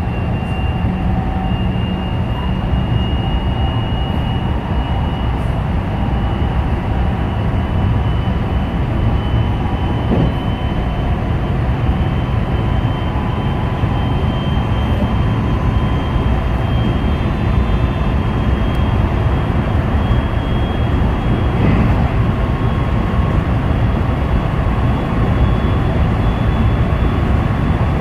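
Electric local train's running noise at the front of the car: a steady rumble of wheels on rail with a thin whine that slowly rises in pitch, and a few faint clicks.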